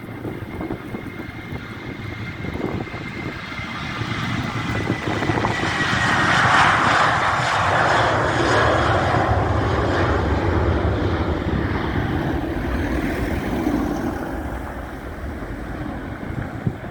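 Boeing 737-800 with CFM56 turbofans passing, a jet roar that builds to its loudest about seven seconds in and then slowly fades. A thin high whine drifts down in pitch as it approaches.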